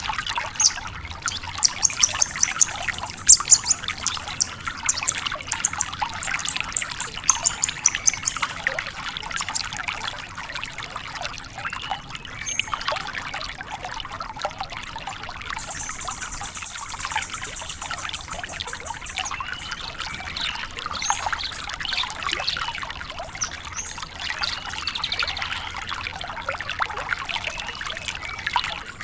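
Branjangan lark singing a long, continuous, rapid and varied chattering song. It twice breaks into high, buzzy trills, about 1.5 seconds in and again around the middle.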